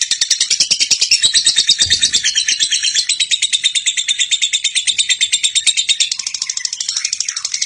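Lovebird chattering in one long unbroken run of rapid high chirps: the long 'ngekek' song.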